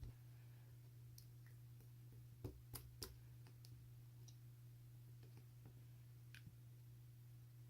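Near silence: a steady low hum with a few faint, sharp clicks, three of them close together about two and a half seconds in.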